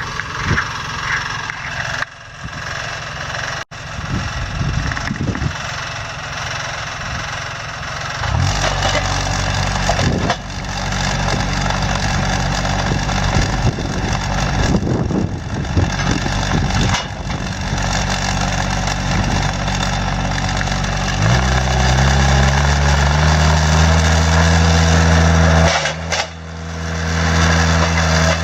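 An engine running, rising in pitch and loudness about eight seconds in and again about two-thirds of the way through, with a brief dip near the end.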